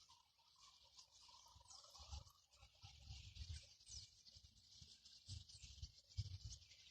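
Faint, dense chatter of a large flock of starlings gathering to roost in a tree: many short chirps and a few falling whistles blended into one continuous hiss-like din, with a few low bumps.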